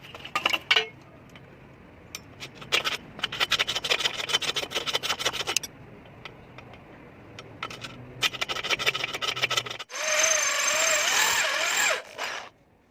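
Steel being worked by hand with rapid scraping strokes in two runs, then an electric drill runs for about two seconds, its pitch wavering as it bores through the steel arm of a satellite dish mount, and stops abruptly.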